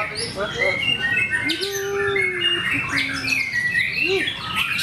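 Several white-rumped shamas singing at once: a dense, overlapping run of quick chirps, trills and whistles, with a few lower, drawn-out whistled notes in the middle.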